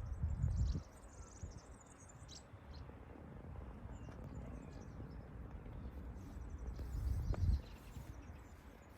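Outdoor ambience: faint, short, high bird chirps over low rumbling noise, with louder low rumbles near the start and again about seven seconds in.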